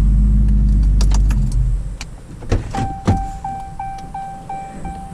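A vehicle engine idling loudly, which fades about two seconds in. Then two sharp thumps, and a car's warning chime beeping steadily about three times a second.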